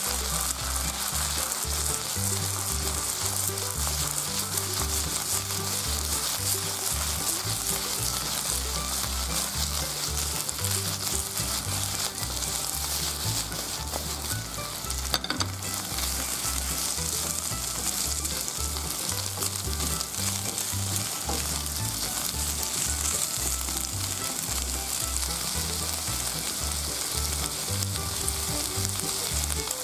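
Eggplant chunks and sliced pork belly sizzling in hot oil in a frying pan as they are stir-fried, a steady high hiss.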